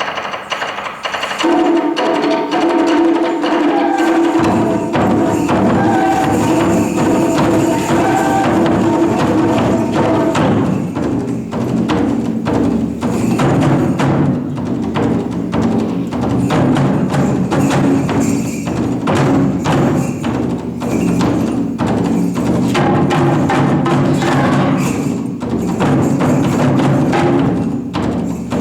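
Taiko drum ensemble performing: dense, rapid drum strokes and sharp wooden clicks over a sustained melodic line, with a fuller, lower layer joining about four seconds in.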